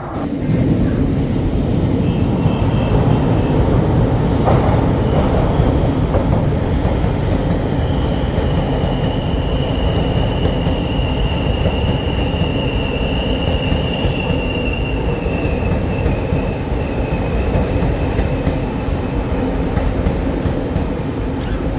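Taiwan Railway train running past along the platform, with a loud steady rumble of wheels on rails. A high wheel squeal comes in about eight seconds in, slowly falls in pitch and fades near the end.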